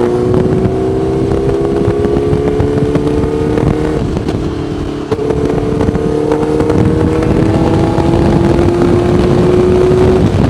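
Honda CBR1000RR's inline-four engine pulling under acceleration, its pitch climbing slowly, with rushing wind. About four seconds in it drops briefly, then climbs again. The bike is restricted to about 49 horsepower.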